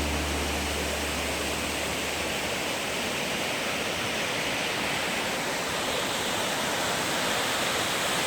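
Steady rushing noise, even and unchanging, with the tail of a music track fading out in the first couple of seconds.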